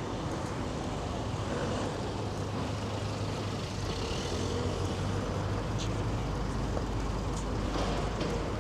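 City street traffic: a steady mix of vehicle engines and tyre noise with a constant low hum underneath.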